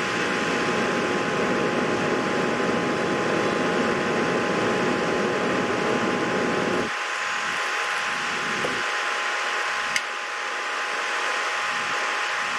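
Steady fan-like whirring noise with two faint steady tones in it; its lower, deeper part drops away about seven seconds in, and a single sharp click comes near the end.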